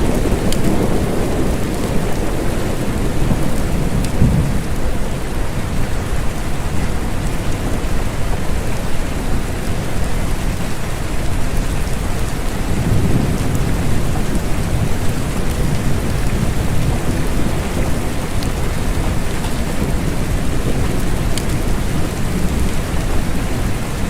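Steady rain falling, with low rolling thunder rumbles swelling near the start and again about halfway through.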